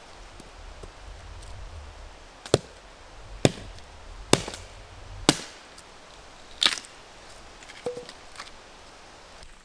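Wood being chopped with an axe: four sharp strikes about a second apart, then one more after a short pause.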